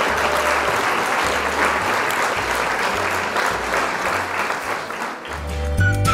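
Applause over background music with a stepping bass line. About five seconds in, the applause fades and the music comes forward with clear held notes.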